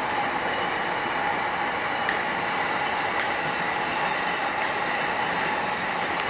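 Electric passenger train passing at steady speed, its wheels running on the rails in a continuous rumble with a humming tone and a few faint clicks.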